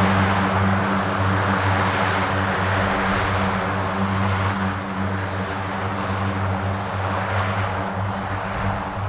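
Aircraft engines running with a steady low drone and a wide rush of noise, slowly fading as the plane moves away.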